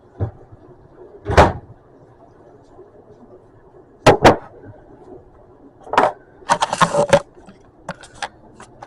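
Household objects being handled and set down: a few separate knocks and clunks, a close pair of them midway, then about a second of rattling and rustling and some light clicks near the end.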